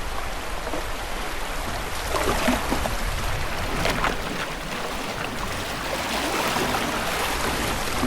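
Shallow river water rushing steadily around a kayak, with a few louder splashes about two and four seconds in.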